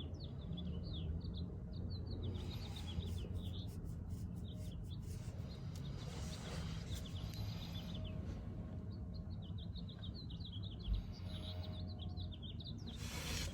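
Small birds chirping in quick runs of short notes, off and on, over a steady low hum.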